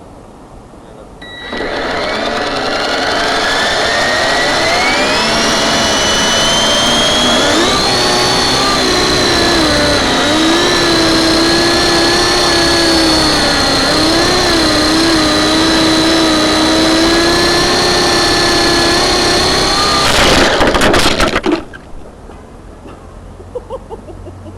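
Small electric model helicopter spooling up with a rising motor whine, then flying with a steady high whine over a wavering rotor hum as the throttle shifts. About twenty seconds in, a short burst of clattering blade strikes as it crashes, and the motor sound stops.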